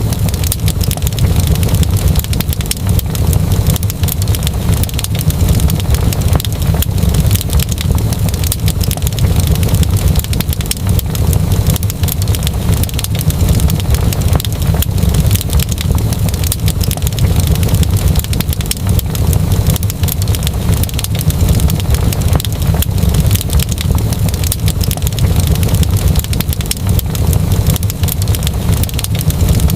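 Fireplace fire crackling steadily, with dense irregular pops and snaps over a constant low rumble.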